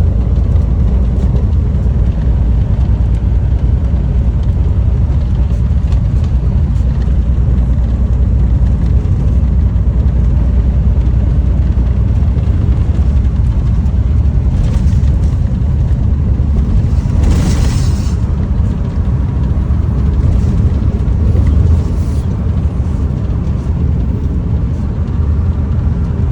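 Steady low rumble of a car on the move, road and wind noise, with a brief rushing hiss about seventeen seconds in.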